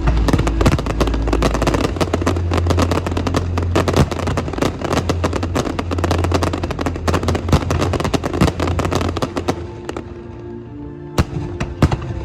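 Aerial fireworks crackling and popping in a dense, rapid barrage over music with a steady bass. About ten seconds in the barrage thins to a few separate bangs.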